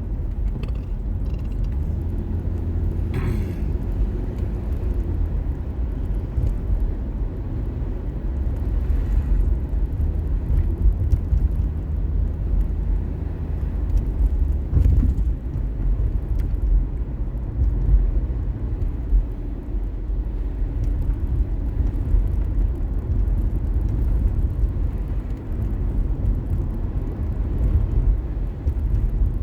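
Car driving on city streets, heard from inside: a steady low rumble of road and engine noise, with the engine note rising and falling a little and a couple of brief louder noises along the way.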